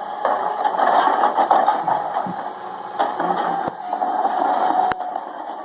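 Freightliner M2 rear-load garbage truck with a Heil 5000 body running: engine and mechanical rattling under a steady whine, louder in two stretches. Two sharp clicks come about a second apart in the second half.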